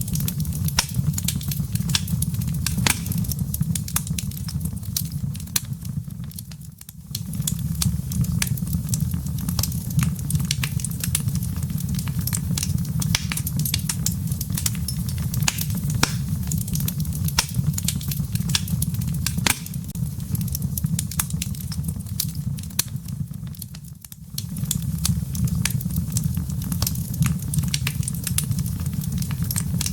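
Wood fire crackling in a fireplace: a steady low rumble of flames with many sharp pops and snaps from the embers. The whole sound dips briefly twice, about seven seconds in and again near the end of the third quarter.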